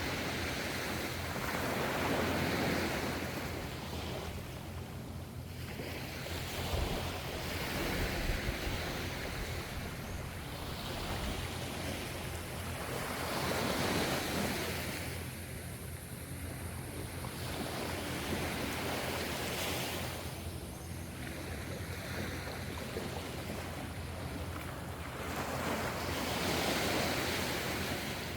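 Gentle ocean waves breaking and washing in, the surf swelling and fading in slow surges every five to six seconds over a steady low rumble.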